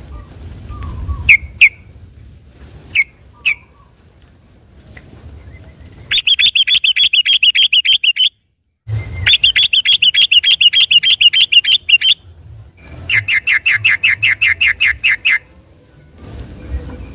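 Yellow-vented bulbul (trucukan) singing in 'ropel' style. A few sharp single notes come first, then three long runs of fast, rapidly repeated chattering notes, each lasting two to three seconds. The second run starts right after a moment of dead silence.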